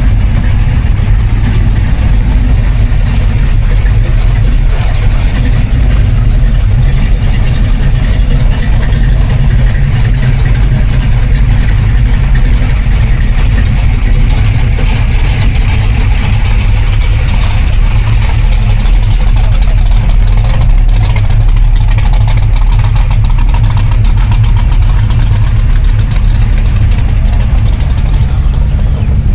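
Car engine running steadily with a loud, deep rumble.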